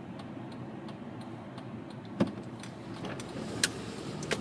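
Steady road and engine noise inside the cabin of a moving 2005 Honda Pilot, with a few sharp clicks, the loudest about two seconds in.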